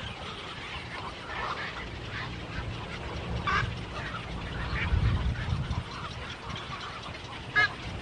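Several birds calling in short, overlapping calls, with one loud, sharp call near the end and a low rumble about five seconds in.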